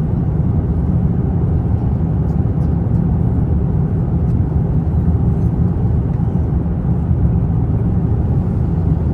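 Economy cabin noise of an Airbus A350-900 in cruise: a steady, deep rumble of airflow and engines that holds even throughout.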